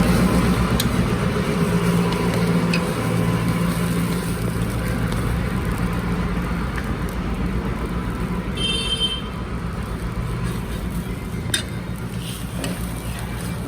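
Street traffic noise with a steady low engine hum, a few sharp clicks, and a brief high-pitched tone about nine seconds in.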